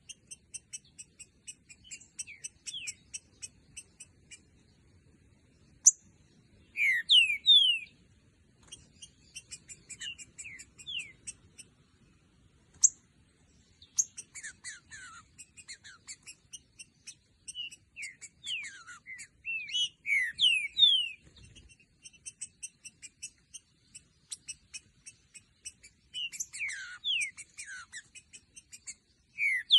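Green-winged saltator (trinca-ferro) singing loud phrases of quick downward-slurred whistles, with long runs of fast, high chipping notes between the phrases.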